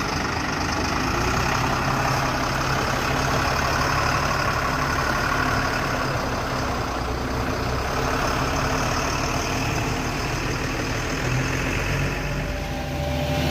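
A heavy diesel engine running steadily at low revs.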